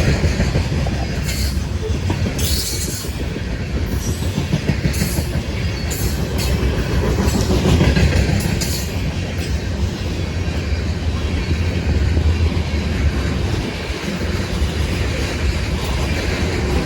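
Freight train cars rolling past with a steady low rumble of wheels on rail and clicking over the rail joints. Several short high-pitched wheel squeals come in the first half.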